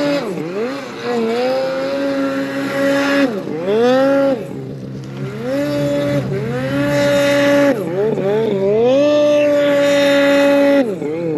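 Snowmobile engine revving hard while riding in deep snow: the revs hold high for a second or two, dip sharply and climb back again, several times over.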